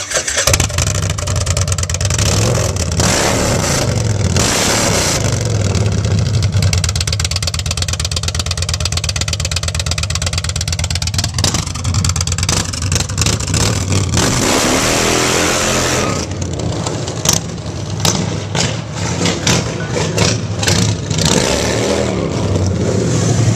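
2014 Indian Thunder Stroke 111 V-twin running through a DirtyBird Concepts aftermarket exhaust, revved up and down several times between stretches of lumpy idle.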